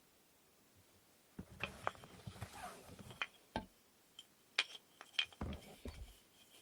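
Light knocks and clicks of wooden inkle loom parts being handled and fitted together during assembly, starting after about a second and a half of quiet and coming irregularly, a few with a short bright ring.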